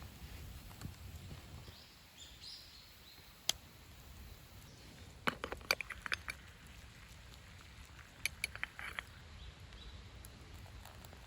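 Campfire crackling: scattered sharp pops, some single and some in short clusters, over a low rumble.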